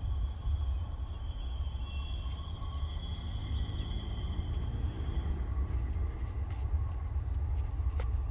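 Norfolk Southern double-stack freight train approaching from a distance: a steady low rumble with faint, steady high-pitched ringing tones over it.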